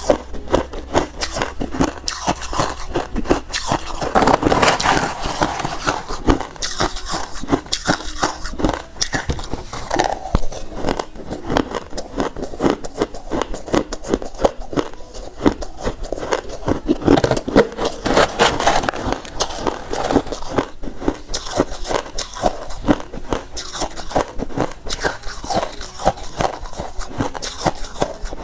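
Close-up crunching and chewing of refrozen crushed ice, a dense stream of crisp crunches that is loudest about four seconds in and again around seventeen seconds.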